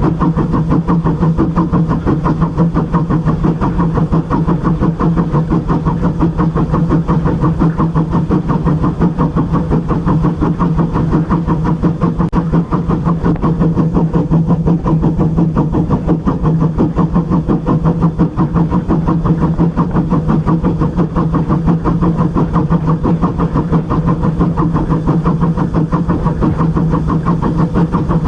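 Locomotive running steadily: a constant mechanical drone with a strong low hum and a fast, even pulse.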